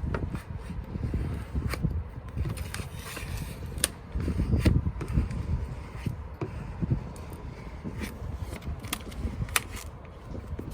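Vinyl decal application: light scraping and crinkling of a squeegee and decal backing paper, with sharp clicks scattered throughout, over a low irregular rumble of wind on the microphone.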